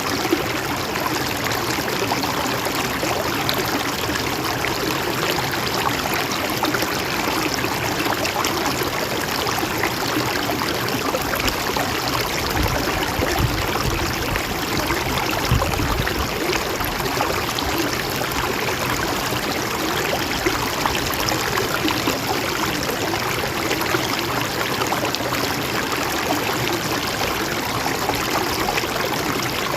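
Mountain stream flowing steadily over rocks, a continuous gentle rush and trickle of water. A low rumble joins it for a few seconds around the middle.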